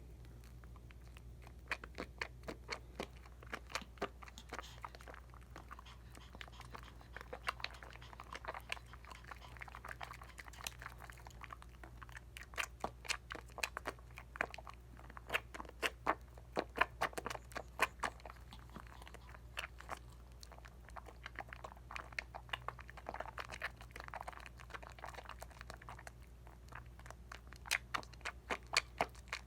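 Hands working a lather of Dial coconut bar soap, making wet, squishy crackles and bubble pops that come in irregular clusters, starting about a second and a half in.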